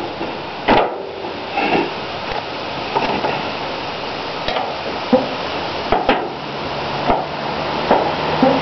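Sharp metal knocks and clicks at irregular intervals of about one a second: vise-grip pliers working at a stuck lid on a paint can.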